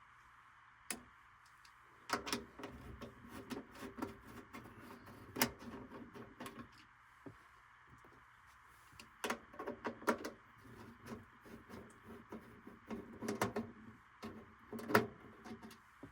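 Clicks, knocks and light rattles of tools and furnace parts being handled while the furnace is taken apart to reach the gas valve, in two busy spells with a pause between them.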